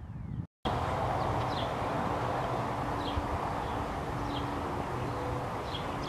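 Outdoor farm ambience: a steady rushing noise with a low engine hum. A bird gives short high chirps about every second and a half.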